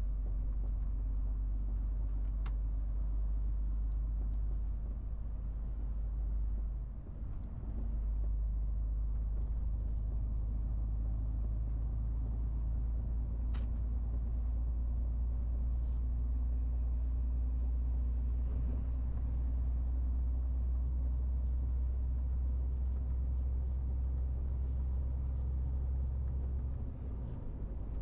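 MAN TGX 18.470 truck's straight-six diesel running steadily under way, a deep, steady drone with the tyre and road rumble of a moving lorry. The engine sound dips briefly twice, about seven seconds in and near the end.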